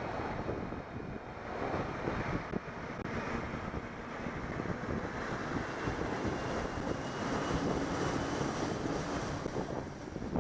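Wind rushing and buffeting over the microphone of a camera riding along on a bicycle, with road noise underneath.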